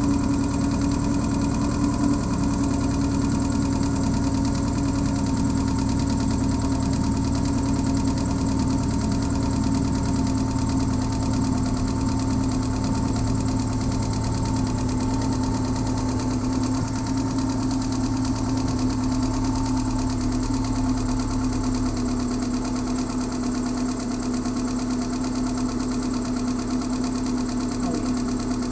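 2009 Subaru Outback 2.5's flat-four engine idling steadily, without a misfire, its pitch sinking slightly over the stretch.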